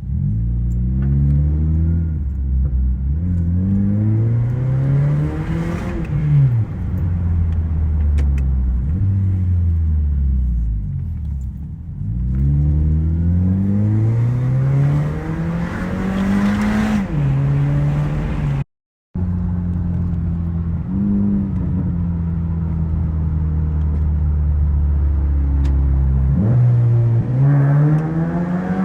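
Exhaust of a 2012 Honda Civic's 1.8-litre four-cylinder through an aftermarket eBay Fireball muffler. The engine climbs in pitch and drops back several times, then holds a steady drone for several seconds, with a brief cut to silence about two-thirds of the way in and another climb near the end.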